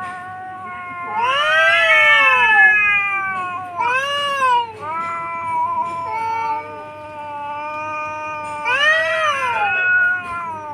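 Two cats caterwauling at each other in a fight standoff. They give long, wavering yowls that swell and fall in pitch, and the two voices overlap at times.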